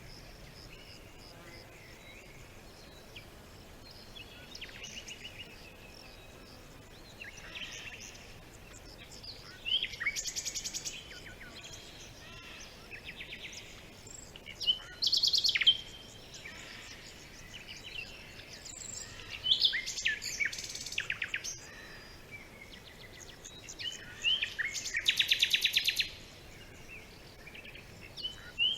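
Songbirds singing: sharp falling chirps and fast buzzy trills, with several louder trilled phrases coming about every five seconds over a faint steady hiss.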